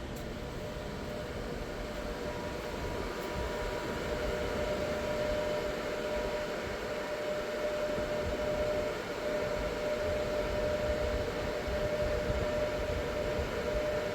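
Daeyoung Chaevi DC fast charger running during an electric-car fast charge: steady fan-like rushing with a held whine, growing slowly a little louder.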